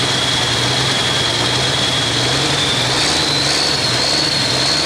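Super farm pulling tractor's diesel engine running steadily, with a continuous high whine that rises slightly about three seconds in.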